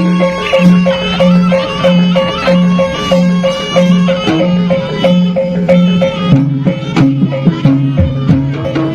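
Live Javanese jaranan (kuda lumping) ensemble music: a wavering lead melody over drums and evenly repeated struck metal beats, with a pulsed low note. About six seconds in, the low part changes to a new, busier pattern.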